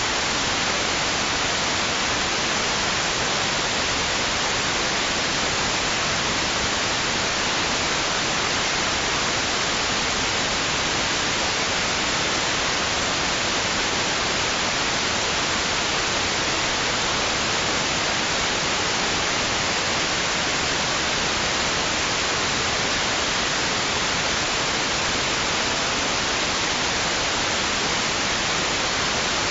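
Steady white-noise hiss, even and unchanging, with no swells or breaking waves.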